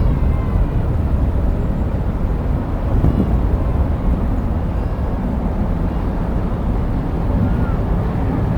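Strong wind buffeting the microphone: a loud, unsteady low rumble that rises and falls in gusts, which may mask the sound of distant jet aircraft.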